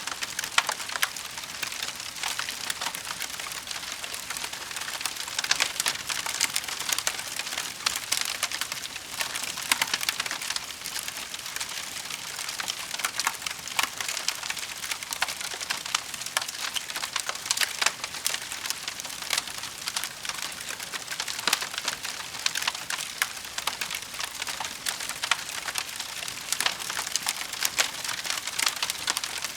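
Wood fire burning in a fireplace, with a steady hiss and constant crackling, many small sharp pops scattered throughout.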